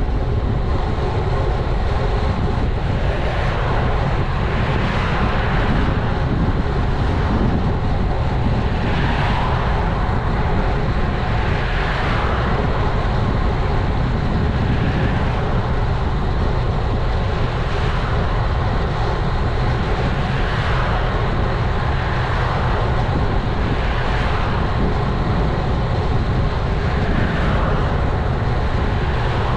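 Wind rushing over an action camera's microphone on a moving road bike, with tyre and road noise, steady and loud, swelling and easing every few seconds.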